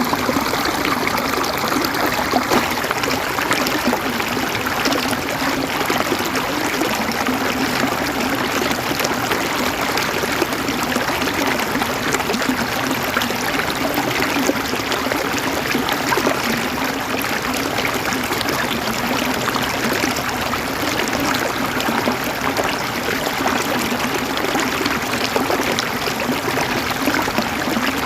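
River water flowing and gurgling over rocks: a steady, even rush of running water.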